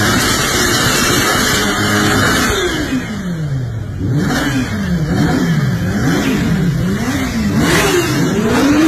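Kawasaki Ninja H2's supercharged inline-four engine being revved: a loud, rough run for the first couple of seconds, then the revs drop about three seconds in and the throttle is blipped up and down about once a second.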